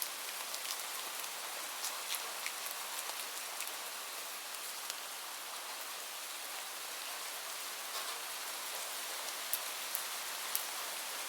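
Steady rain hiss with a wood fire crackling over it: scattered sharp pops at irregular moments, the loudest few near the end.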